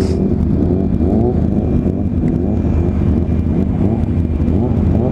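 Motorcycle engines revving up and easing off again and again, the pitch climbing and dropping with each pull of the throttle, over a steady low rumble.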